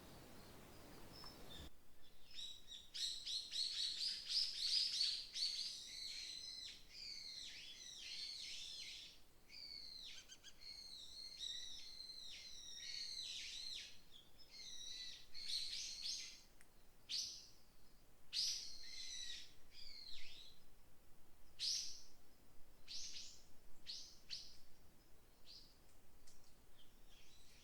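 Small birds singing: a dense tangle of high chirps and trills for the first twenty seconds or so, then separate short calls. A faint hiss at the very start cuts off abruptly.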